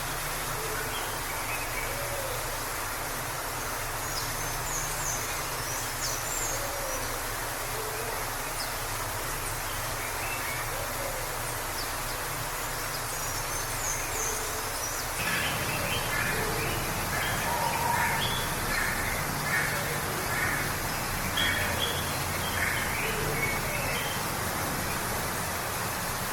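Waterfall rushing steadily, with birds chirping over it; the chirping gets busier from about halfway through.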